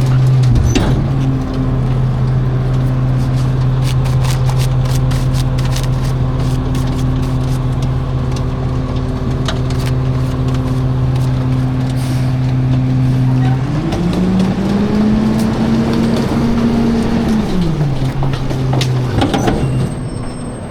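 Garbage truck engine running at a steady idle with many sharp cracks and snaps of the load breaking. About 14 seconds in the engine revs up, holds for a few seconds, then drops back to idle.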